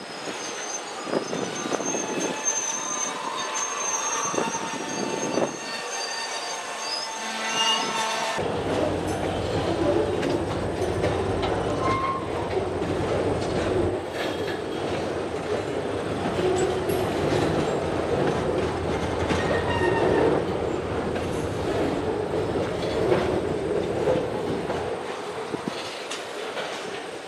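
Slow freight train of boxcars rolling past, steel wheels squealing on the curve, with many high squeals in the first eight seconds. From about eight seconds in, a low diesel rumble from the lead EMD locomotives lies under the passing cars.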